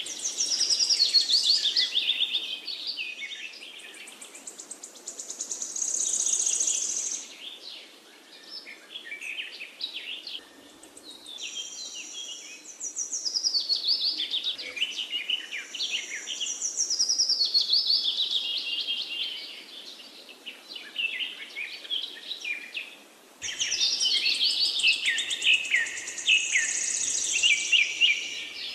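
A songbird singing in long runs of fast chirps and trills, many sweeping downward, with a few short breaks between runs.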